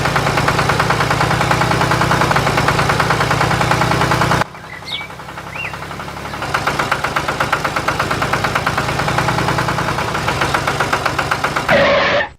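An engine running with a fast, even chugging pulse. It drops away about four and a half seconds in, builds back up about two seconds later, and cuts off abruptly near the end.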